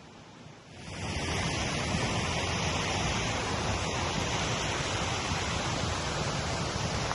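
Rushing creek water, a steady roar that comes in suddenly about a second in and holds.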